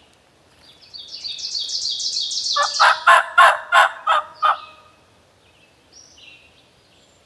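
Wild turkey calls: a fast run of high, rapid notes about a second in, then about five loud, evenly spaced notes, followed by faint small-bird chirps.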